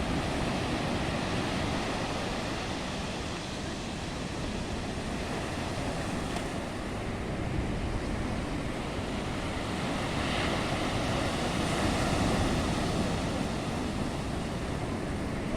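Stormy Black Sea waves breaking and washing in as a steady rush of surf, swelling louder about ten to thirteen seconds in.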